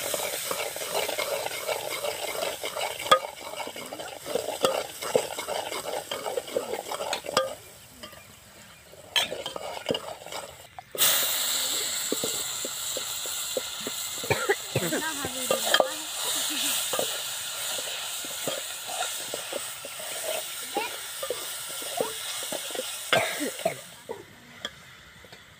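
A steel ladle scraping and stirring spices in hot oil in a metal pot over a wood fire. About eleven seconds in a loud sizzle starts suddenly as chopped green beans go into the oil, and the stirring carries on over it.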